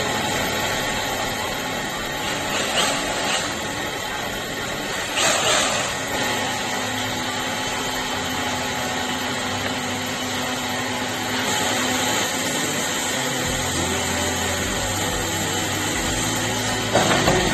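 A power tool running continuously, with a steady motor whine and noise, surging briefly a couple of times early on and taking on a stronger low hum near the end.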